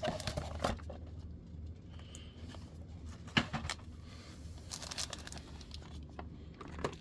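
Trading-card product packaging being handled: plastic wrap and cardboard crinkling and tearing, with a few sharp taps and clicks.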